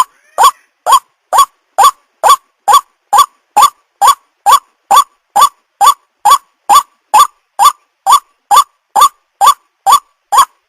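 White-breasted waterhen calling: a loud short note, each one rising slightly, repeated evenly a little over twice a second.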